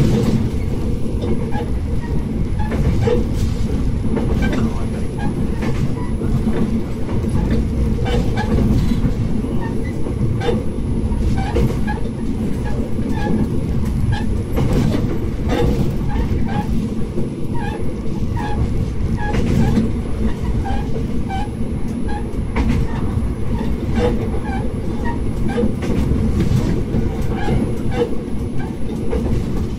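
Tsugaru Railway diesel railcar running along the line: a steady low rumble of engine and wheels with irregular clicks and knocks from the wheels on the track.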